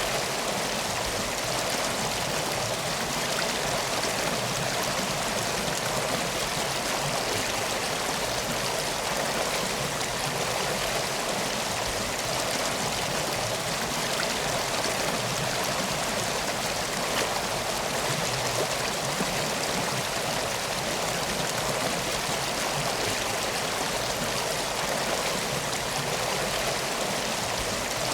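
Steady rushing of flowing water in a stream, an even unbroken sound without pauses.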